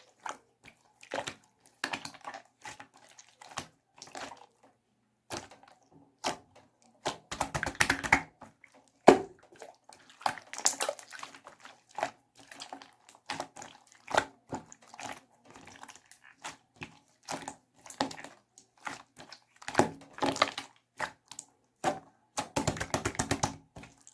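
Slime squished and stretched by hand: wet clicks and squelches in irregular bursts, with two spells of rapid crackling clicks, about eight seconds in and again near the end.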